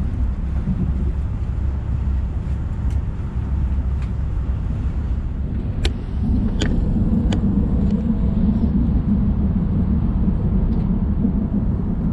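Passenger train running, heard from inside the carriage: a steady low rumble of the wheels on the track that grows a little louder about halfway through, with three sharp clicks in quick succession around then.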